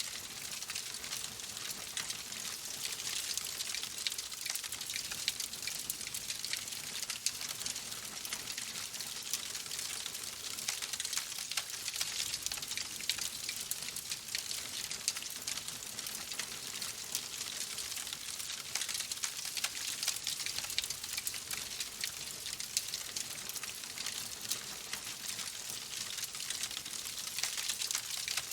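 Wood fire in a fireplace crackling steadily: a dense hiss of small pops with a few louder snaps now and then.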